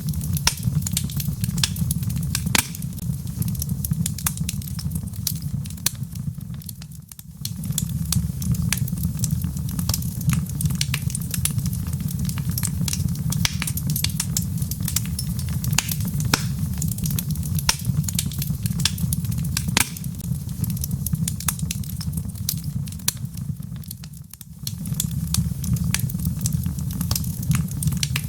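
Log fire crackling in a fireplace: many sharp pops and snaps over a steady low rumble. The sound dips briefly twice, about a quarter of the way in and again near the end.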